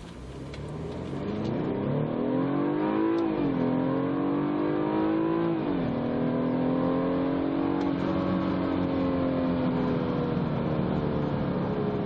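2014 BMW 428i xDrive's turbocharged 2.0-litre four-cylinder under full-throttle acceleration. The engine note climbs in pitch, drops sharply at an automatic upshift about three and a half seconds in, climbs again and drops at a second upshift near six seconds, then runs roughly level, easing slightly lower toward the end.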